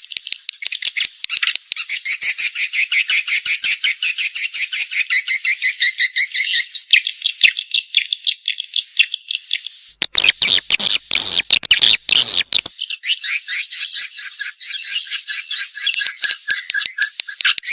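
Edible-nest swiftlet calls: a dense run of rapid, evenly repeated high twittering chirps, the lure-and-response sound of a swiftlet house. About two-thirds of the way through there is a rougher, noisier stretch with low thumps lasting a couple of seconds.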